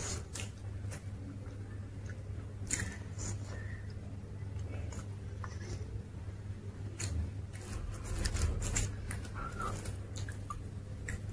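Close-up chewing and crunching of crisp dosa, with scattered short crackles over a steady low hum.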